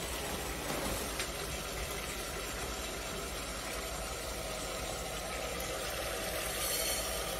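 Steady frying hiss and low rumble from a cast-iron pot of pork, onion and carrot on a lit gas burner, as handfuls of dry rice are dropped in; the hiss gets brighter near the end as rice lands in the hot oil.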